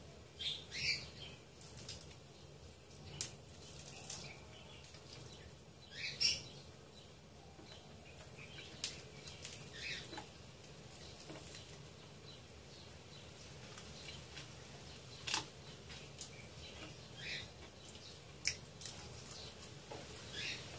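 Close-up mukbang eating: chewing and lip smacking on spicy chicken feet, with irregular short wet clicks and a few sharper clicks scattered through.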